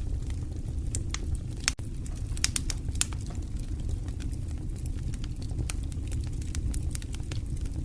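Fire burning in a fireplace: irregular sharp crackles and pops, a few louder ones about three seconds in, over a steady low rumble of the flames.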